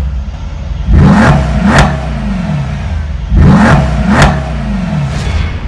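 Mercedes-AMG GT S 4.0-litre twin-turbo V8 revved in quick blips: two pairs of revs about two and a half seconds apart, each pair ending in a sharp exhaust crack, with the engine settling back to idle in between and after.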